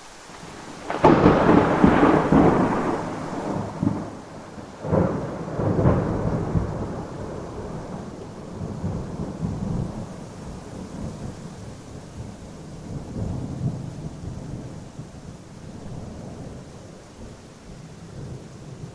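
Thunder over steady rain: a loud clap about a second in, a second peal around five to six seconds, then a long low rumble that slowly fades.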